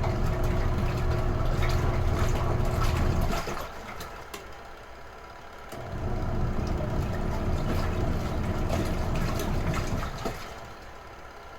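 Retro-type washing machine in its wash cycle: the agitator motor hums with water sloshing for a few seconds, pauses for about two seconds, runs again, and stops again near the end. This is the stop-start rhythm of the wash stroke.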